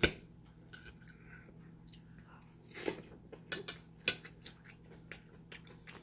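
A person chewing food close to the microphone: irregular sharp mouth clicks, the loudest right at the start and a cluster about three to four seconds in.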